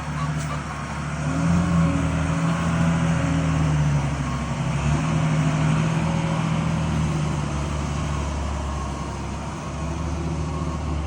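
Car engine running steadily with road noise, its note swelling a little about a second and a half in.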